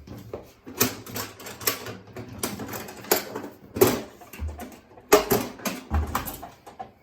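A string of irregular knocks and clatters, with two dull low thuds about four and a half and six seconds in.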